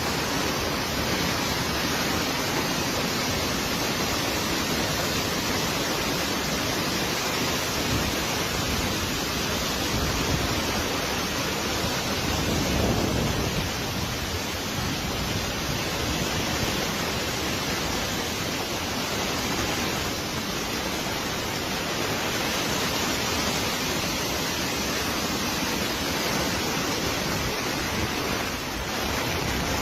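Steady rushing of storm water, even and unbroken throughout.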